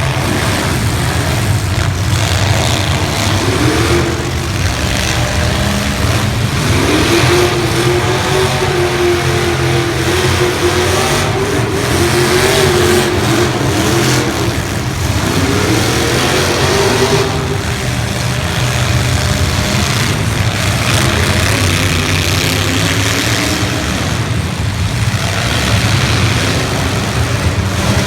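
Demolition derby car engines running hard and revving, the pitch climbing as they accelerate several times.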